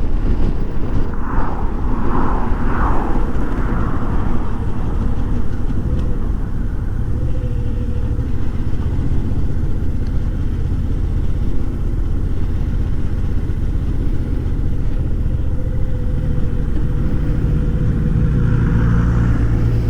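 Suzuki V-Strom 650's V-twin engine running steadily as the motorcycle is ridden at low speed, with a low rumble that picks up a little near the end.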